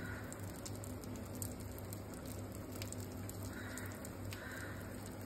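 Rava-coated eggplant slices sizzling in hot oil on a flat pan: a steady crackle with scattered small pops, over a low steady hum.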